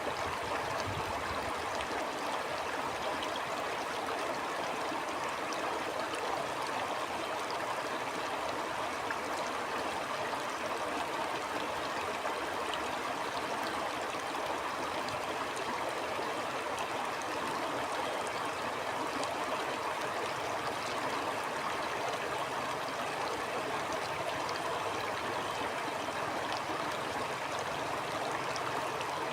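A small stream flowing steadily over stones, an even rushing with light trickling and splashing.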